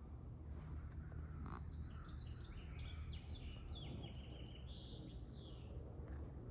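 A songbird singing a quick run of high notes, starting about a second and a half in and lasting about four seconds. A low steady rumble of background noise runs under it.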